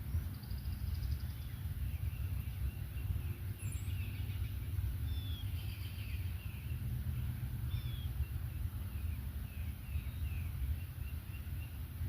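Spring songbirds singing, a string of short chirps, trills and whistled notes, over a steady low rumble.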